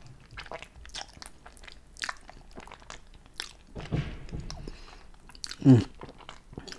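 Close-miked mouth sounds of a man eating saucy fettuccine: wet chewing and lip smacks as a run of short clicks. Near the end comes a brief hummed 'mm', the loudest sound.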